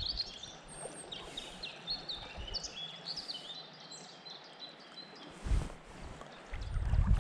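Small birds chirping repeatedly over the steady hiss of river water. A brief low rumble comes about five and a half seconds in and again near the end.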